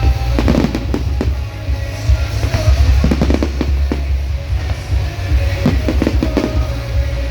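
Fireworks going off in a rapid, irregular series of bangs over a deep booming rumble, with music playing along.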